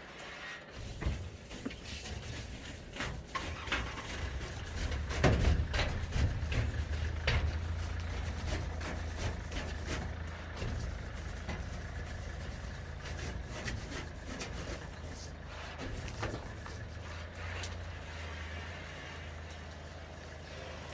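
An engine starts about a second in and runs steadily with a low drone, with scattered knocks and clicks over it.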